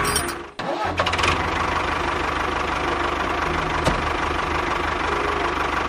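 Engine running steadily with a fast knocking pulse. It drops out briefly about half a second in, then resumes, with a single click later on.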